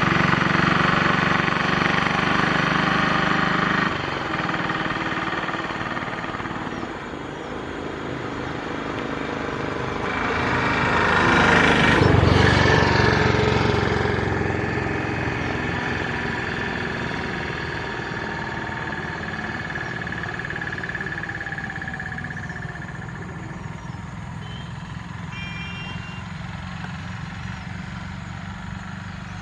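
Motor vehicle traffic going past, with one vehicle's engine rising to a loud pass-by about twelve seconds in and then fading away. A few short high chirps come near the end.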